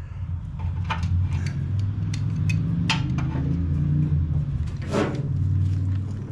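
Socket wrench and metal parts clicking and knocking irregularly while spindle bolts on a riding-mower deck are worked loose, over a steady low hum.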